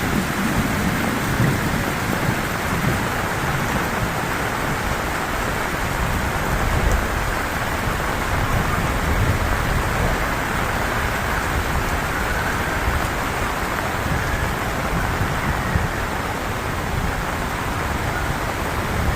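Heavy rain falling steadily, with a low rumble in the first couple of seconds.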